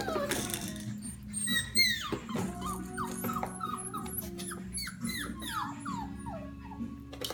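Five-week-old Goldendoodle puppies whining and yipping: a run of short, high cries that fall in pitch, one after another.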